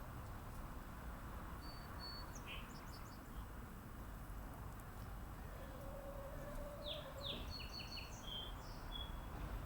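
Birds chirping, with scattered short whistled notes and a quick run of chirps about seven seconds in, over a steady low background rumble.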